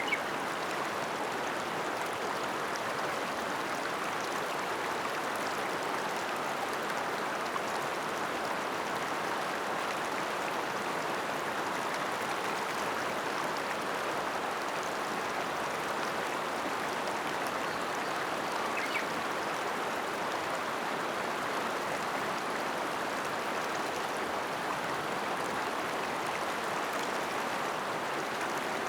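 Ōta River flowing: a steady, unbroken rush of running water.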